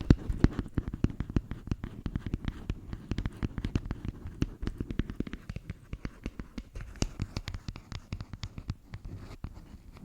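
Close-miked ASMR tapping and scratching: quick, irregular taps and scratches, several a second without a pause.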